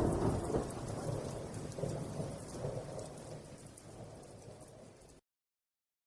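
Thunderstorm sounds: steady rain with a low thunder rumble dying away. It fades gradually and cuts to silence about five seconds in.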